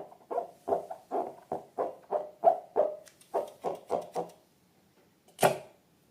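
Rubber balloons squeaking in quick repeated strokes, about three a second, for four seconds; after a short pause, one louder, hissing squeak.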